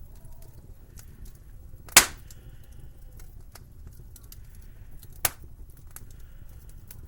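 Wood fire crackling over a steady low rumble, with many small ticks and two sharp pops, a loud one about two seconds in and a smaller one about five seconds in.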